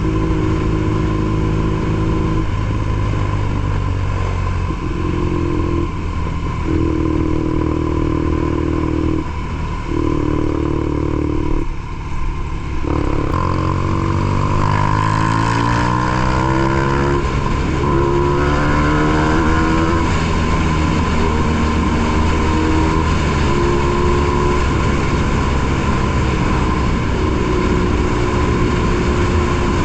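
BMW R nineT Pure's boxer twin through a ZARD exhaust, running at steady revs. About twelve seconds in the revs drop briefly, then climb as it accelerates, and it settles back to steady running.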